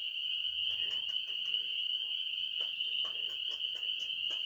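Nighttime chorus of crickets: one steady, unbroken high-pitched trill, with a few faint scattered clicks over it.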